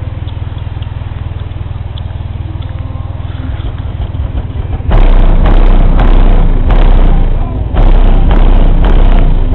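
A 12-inch Fi BL car subwoofer playing a deep bass note at low level, then, about five seconds in, turned up suddenly to full power. The very loud bass overloads the microphone into a crackling distortion and eases off briefly twice.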